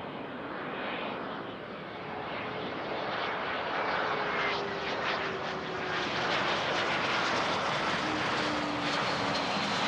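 Business jet's engines running and growing steadily louder, with a thin whine that slowly falls in pitch over the engine noise.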